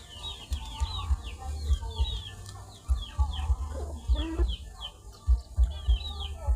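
Chickens: a run of short, high, falling peeps repeated throughout, with a lower clucking call about four seconds in. Irregular low thumps sound underneath.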